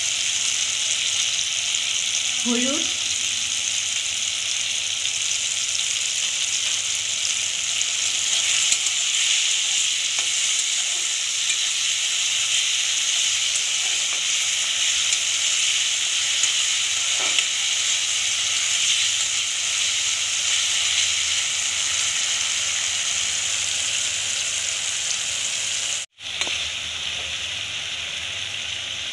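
Chopped tomatoes frying in hot mustard oil in a wok, a steady sizzle, with a metal spatula stirring them. The sound cuts out for an instant near the end.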